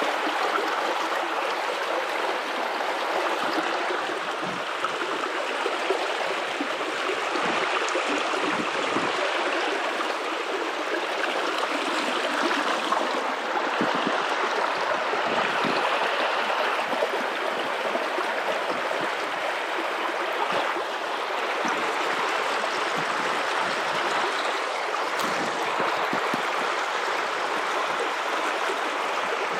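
River water running and rippling over rocks in a steady, continuous rush with small gurgles.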